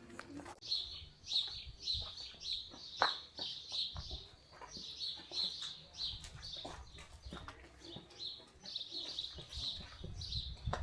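Small birds chirping over and over, starting about half a second in, with scattered footsteps and clicks underneath.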